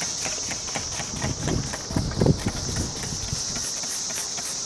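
Insects trilling steadily and high-pitched in the background, with a short cluster of low thumps about a second and a half to two and a half seconds in.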